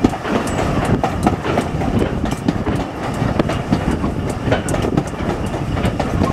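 Railway carriage running along the track: a steady rumble of wheels on rail with frequent irregular clicks and knocks.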